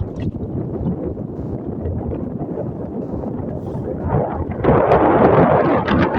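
Wind buffeting the microphone aboard a moving motorboat, a rough rumbling noise that gets louder about four and a half seconds in.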